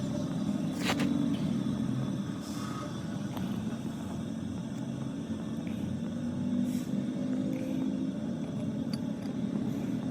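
A steady low mechanical rumble of running machinery, with one sharp click about a second in and a few faint ticks.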